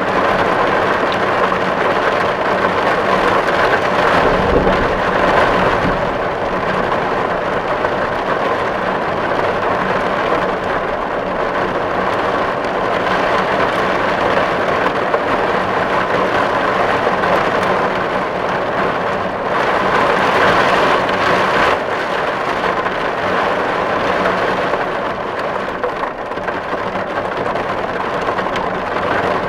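Steady, heavy rain drumming on a tin roof, each drop hitting the metal sheet, with a brief low rumble about five seconds in.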